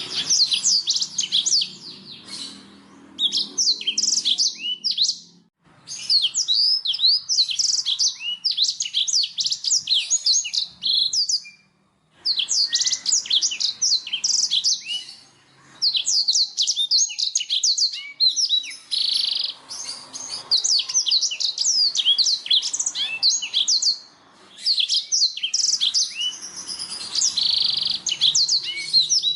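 Black-throated canary (blackthroat) singing: long runs of fast, high twittering song broken by brief pauses about four times.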